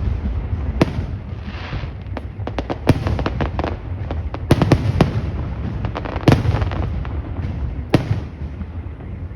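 Fireworks bursting overhead: a string of sharp bangs at irregular intervals, with bursts of crackle between them over a constant low rumble. The loudest bangs fall around three, four and a half, six and eight seconds in.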